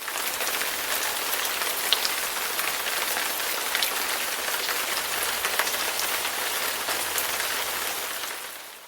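Rain falling: a steady hiss with scattered drop ticks, starting abruptly and fading out near the end.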